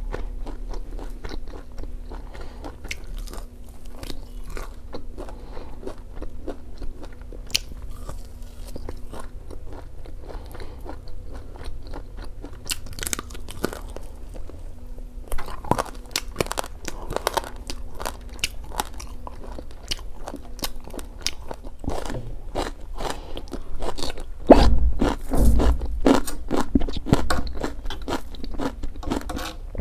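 Close-miked eating sounds: crunching and chewing of crispy fried pork, with many small mouth clicks, and a louder spell of chewing a few seconds before the end.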